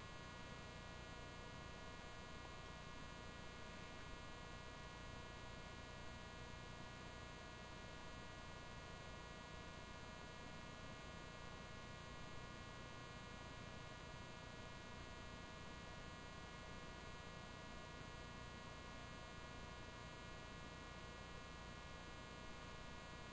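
Faint, steady electrical hum and buzz made of many even tones, with no other sound: background hum of the recording.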